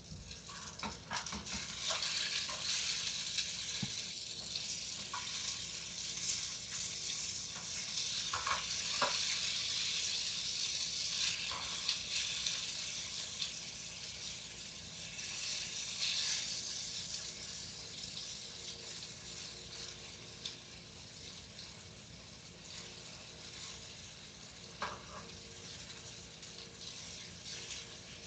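Breaded chicken pieces deep-frying in hot oil: a steady sizzle with scattered crackles, louder through the first half and settling lower later on.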